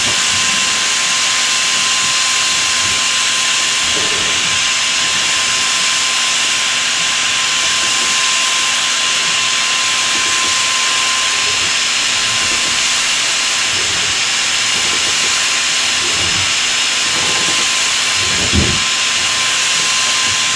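Electric paint sprayer running steadily, spraying Plasti Dip onto a car's body: a constant hiss of atomised spray over a steady motor whine. A brief thump near the end.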